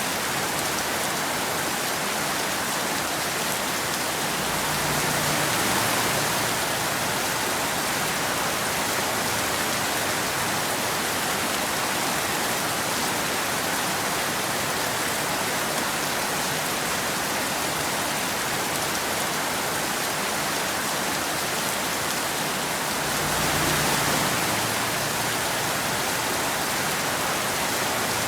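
Steady rain falling in a dense, even hiss, swelling slightly louder twice, about five seconds in and near the end.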